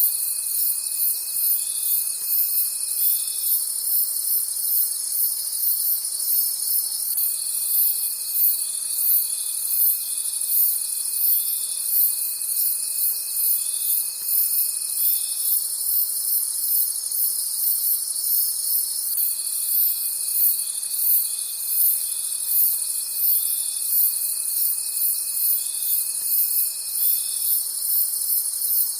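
Night chorus of crickets chirping in a fast, high, even pulsing, with a lower steady trill from another insect that breaks off and starts again twice.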